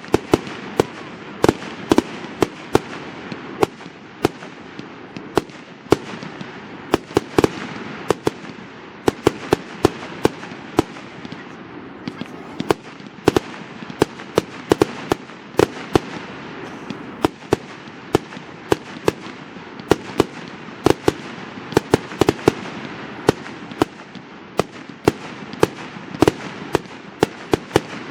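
Fireworks display: a rapid, irregular barrage of sharp bangs, several a second, over a continuous crackling haze of bursting shells.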